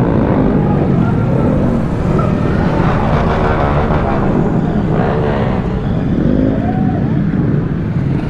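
Motor vehicle traffic: a steady engine and road rumble, with vehicles passing at about three and five seconds in.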